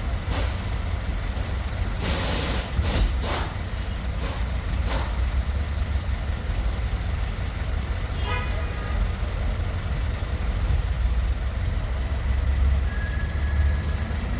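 2015 Chevrolet Tahoe's V8 engine running with a steady low rumble, an engine with a random misfire that the owner puts down to the ignition plugs. Several short bursts of hiss come in the first five seconds, and a brief run of rapid ticks about eight seconds in.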